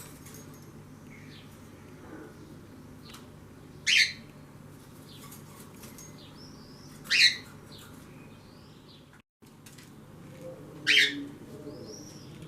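Small birds chirping: three loud, sharp, short chirps a few seconds apart, with fainter chirps between them.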